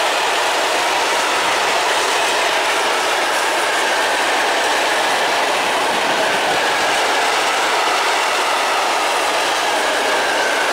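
Freight train of open-top coal wagons rolling past close by: a loud, steady noise of steel wheels running on the rails.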